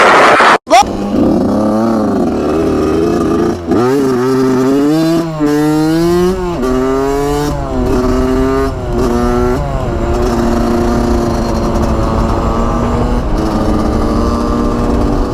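Dirt bike engine accelerating through several gears, its pitch climbing and then dropping at each upshift, then running at a steady speed. A brief loud rush of noise cuts off abruptly at the very start.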